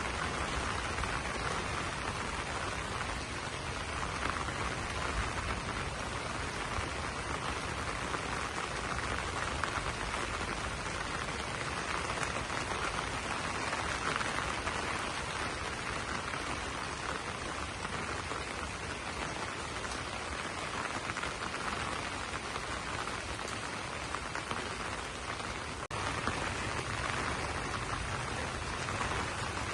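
Steady rain falling and pattering on broad banana leaves.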